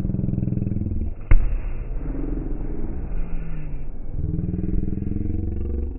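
Fireworks slowed down, heard as deep, drawn-out rumbling and buzzing drones. One sharp bang lands about a second in.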